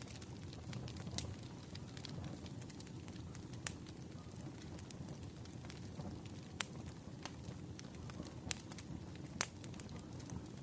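Burning firewood crackling: irregular sharp pops and snaps, a few louder than the rest, over a steady low rumble.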